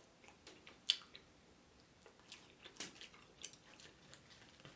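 A person chewing fried chicken close to the microphone, with a few faint crisp crunches and wet mouth clicks scattered through.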